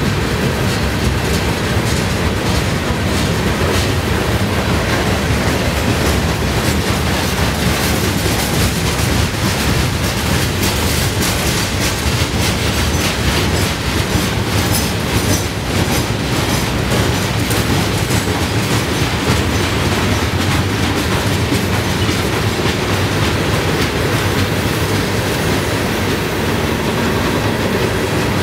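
Freight train of hopper cars rolling slowly past: a steady rumble of steel wheels on the rails with a continual run of clicks and clanks.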